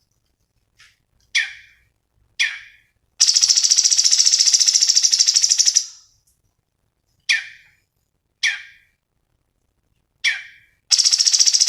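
Cucak cungkok songbird singing: short sharp notes that drop in pitch, then a long, fast, high trill of nearly three seconds, more single falling notes, and the trill starting again near the end.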